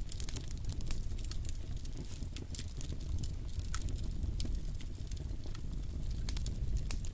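Wood campfire burning, with irregular sharp crackles and snaps, several a second, over a low steady rumble.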